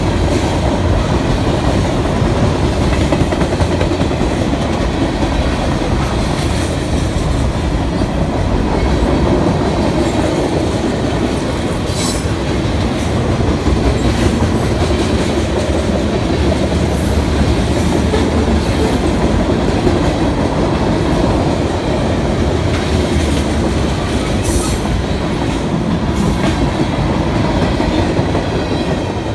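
Freight train cars rolling past, wheels clicking over rail joints in a steady loud rumble, with a few sharp high metallic sounds about twelve seconds in and again near twenty-five seconds.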